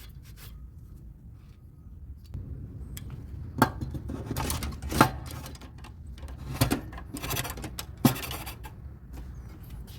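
Metal washing-machine parts knocking and scraping as they are handled and fitted, with four sharper clanks about 3.5, 5, 6.5 and 8 seconds in.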